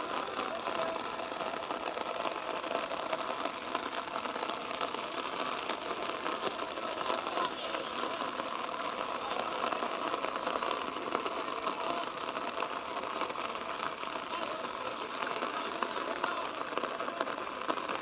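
Steady, indistinct background noise on a rugby pitch: distant players' voices and calls blurred together, with no single clear sound standing out.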